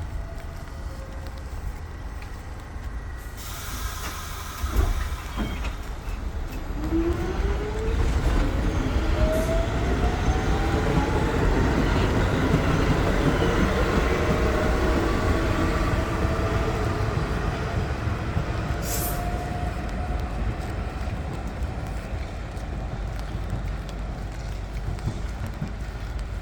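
Electric train pulling away: a whine from its motors rises steadily in pitch for several seconds as it gathers speed, over a continuous low rumble. A single sharp knock comes just before the train starts moving.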